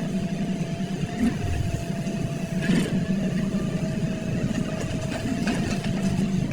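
Heavy earthmoving machine's diesel engine running steadily with a thin steady whine over it, and a few short knocks, the clearest about three seconds in.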